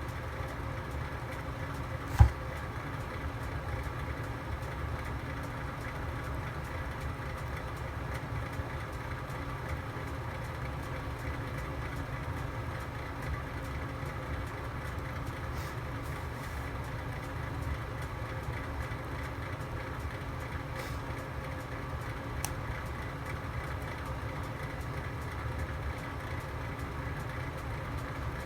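A fire burning in a home fireplace with a steady low rumble. One sharp, loud crackling pop comes about two seconds in, and a few faint ticks follow later.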